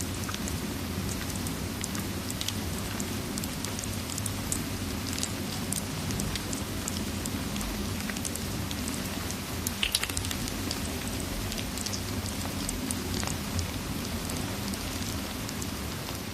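Steady rain mixed with the scattered crackles of a fireplace, a sharper cluster of crackles about ten seconds in.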